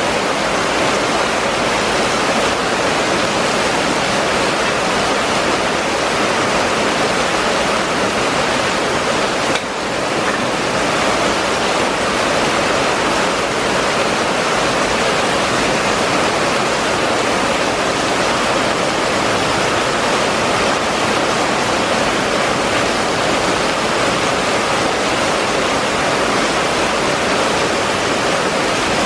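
Heavy rain pouring steadily onto a flooded street, a dense, even hiss of drops hitting standing water, with a brief dip in level about ten seconds in.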